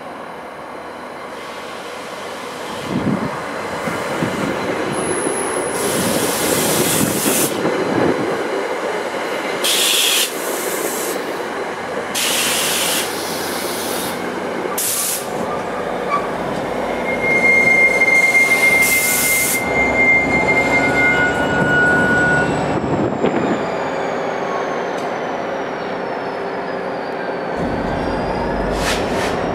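NJ Transit commuter train rolling slowly into a station, its wheels and brakes letting out repeated short high-pitched squeals over the rumble of the cars, with one longer steady squeal around the middle. A deeper rumble comes in near the end.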